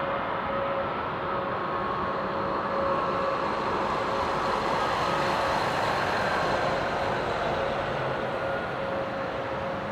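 Airbus A321neo jet engines running with a steady whine over a broad roar, swelling slightly in the middle.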